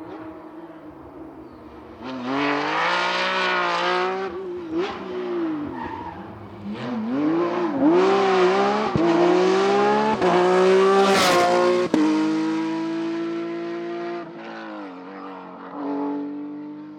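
Rally car's engine revving hard as it approaches and passes, pitch climbing and dropping sharply with each gearshift, loudest a little past the middle. A brief sharp burst comes about eleven seconds in, and the engine then holds a steadier note and fades.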